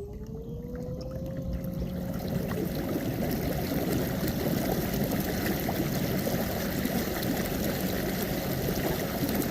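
River water rushing steadily around a moving kayak, building over the first couple of seconds and then holding. A faint tone glides upward early on.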